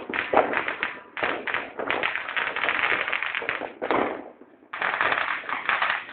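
Firecrackers going off in rapid crackling bangs, many close together, with a brief lull about four seconds in before they resume.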